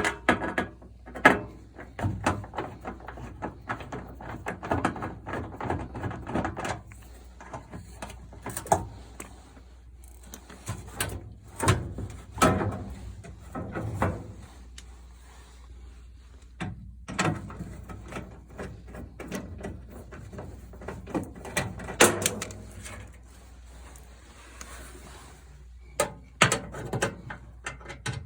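Irregular clanks, knocks and clicks of tools and the sheet-metal panels and parts of a gas dryer being handled during disassembly, over a steady low hum.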